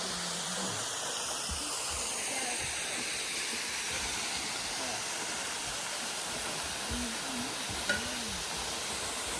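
Small waterfall pouring steadily into its pool, an even rushing of falling water, with faint distant voices now and then.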